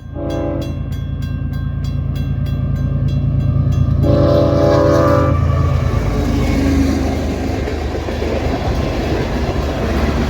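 A crossing bell rings about three strikes a second over a locomotive's low rumble, and the train horn sounds a short blast and then a longer one. After about five seconds the bell is no longer heard and the train passes with loud wheel and rail noise.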